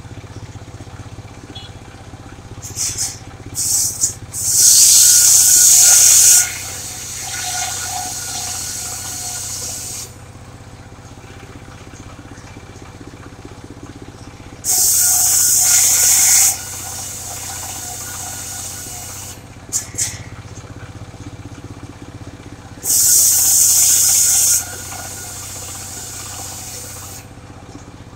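Portable circular sawmill cutting sengon timber. Its engine runs steadily, and the blade rips through the wood three times, each cut a loud hiss lasting about two seconds, with a few short knocks just before the first two cuts.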